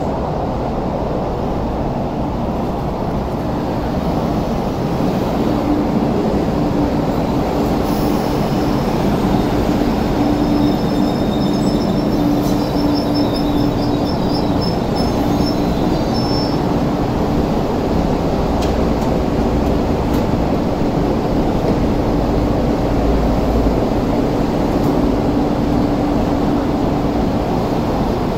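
An MTR East Rail Line electric multiple-unit train pulls into the platform and brakes to a stop, with a steady rumble and hum. A thin high brake squeal runs for several seconds in the middle as it slows. The hum carries on once it stands with its doors open.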